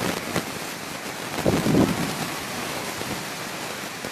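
Heavy rain and strong storm wind making a steady rushing noise, with a louder gusting rush about one and a half seconds in.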